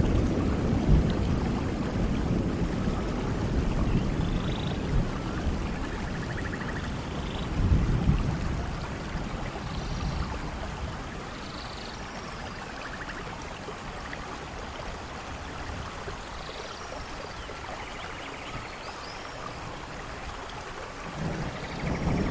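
Steady rain with rolling thunder: a low rumble about eight seconds in, a quieter stretch of rain, then thunder building again near the end. A few faint short high chirps sound over the rain.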